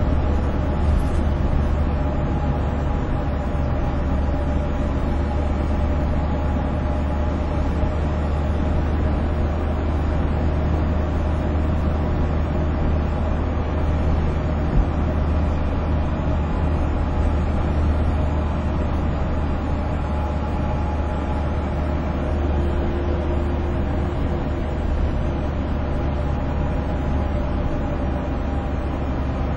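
Steady road noise from a moving vehicle on a highway: a continuous low rumble of engine and tyres with a faint steady hum over it. There is one small knock about halfway through.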